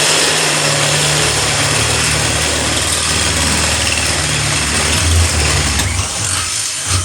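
Power tool running steadily under load as it enlarges the centre hole in a steel exhaust-baffle plate, with a loud, even cutting noise over a low motor hum; it stops suddenly at the end.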